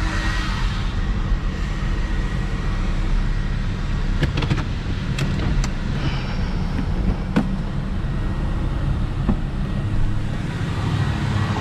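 Hyundai Genesis Coupe 3.8 V6 driving: steady low engine and road rumble with tyre hiss, swelling briefly at the start and near the end, and a few faint clicks in the middle.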